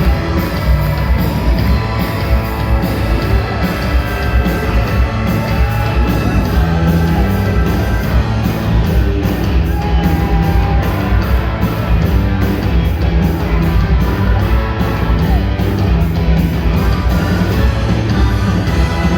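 A live rock band playing loudly on a concert PA: drums with regular cymbal hits, a heavy bass end, and sustained held chords.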